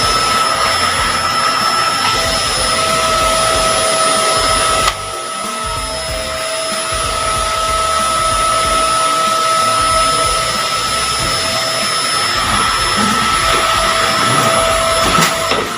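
Vacuum cleaner running steadily with a high motor whine while cleaning a car's interior. The level drops a little about five seconds in, then holds.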